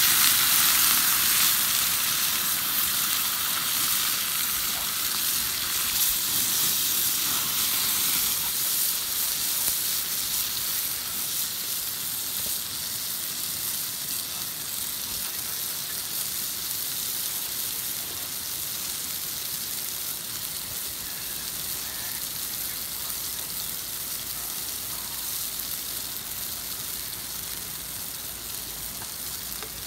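Food frying in a pan over a wood fire: a steady sizzle that slowly fades.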